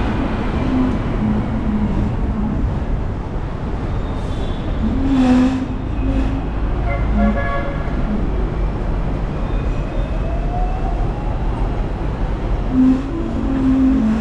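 Hong Kong tram running through city traffic, a steady low rumble. A brief horn toot sounds about seven seconds in.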